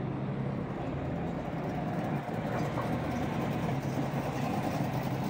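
Engine of a vintage coupe running with a steady low hum as the car rolls slowly past at low speed.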